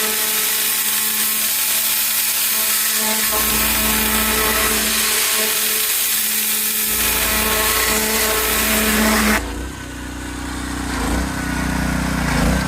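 Gas-engine pressure washer spraying, a steady loud hiss over the engine's hum. About nine seconds in the spray stops as the trigger is let go, and the engine runs on by itself, its pitch shifting as it settles.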